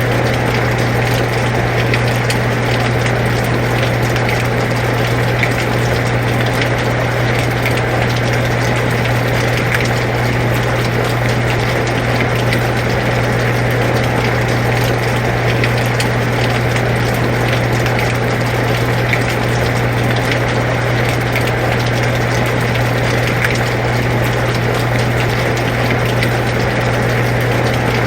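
Air conditioner running with a steady low hum, together with rain falling steadily, many small drop ticks in a constant wash of noise.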